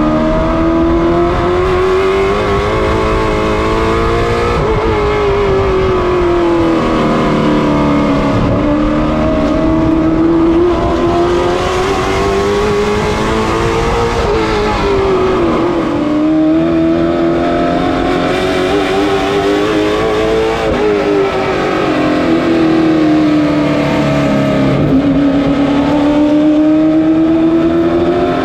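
Late model stock car's V8 engine at racing speed, pitch climbing as it accelerates and dropping as it lifts, in a repeated cycle every several seconds as the car laps a short oval.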